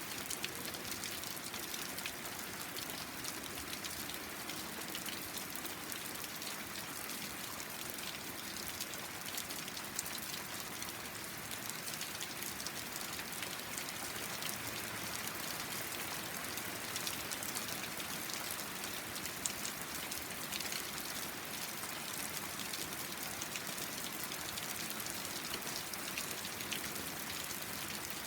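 Steady rain falling and pattering on a deck, a constant hiss full of fine drop ticks with an occasional louder drip.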